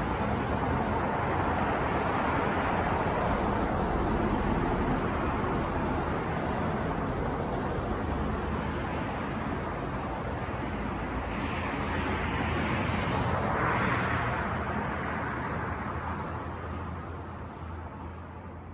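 Steady city street traffic: a wash of passing cars with a low hum underneath. One vehicle swells louder past the middle, and the sound fades near the end.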